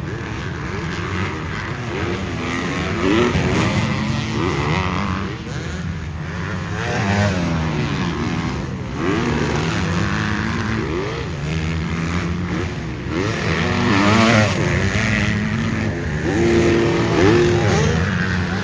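Several dirt bike engines racing, with overlapping engine notes revving up and dropping back again and again as the riders work the throttle and shift.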